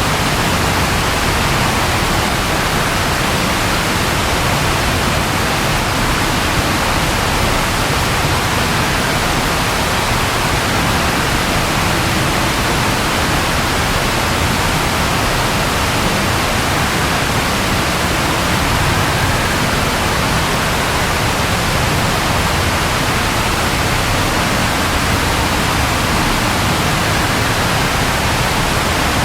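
Steady rain falling, a dense, even hiss with no distinct drops or thunder.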